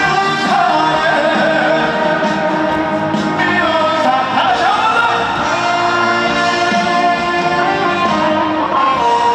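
Live trot music: a male singer singing over an amplified band with electric guitar.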